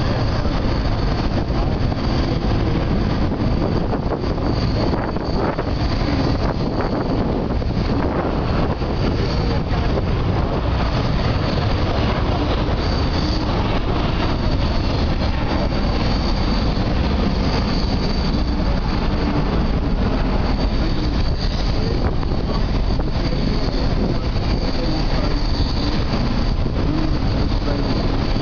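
Airbus A380's four turbofan engines at takeoff thrust: a loud, steady roar with a high whine held above it.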